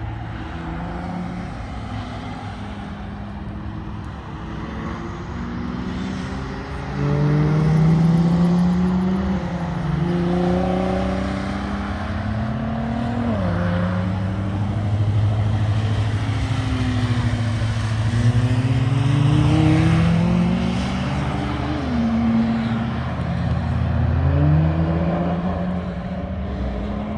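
V8 car engine accelerating hard on track, its pitch climbing and then dropping sharply at each gear change, several times over. It gets louder about seven seconds in.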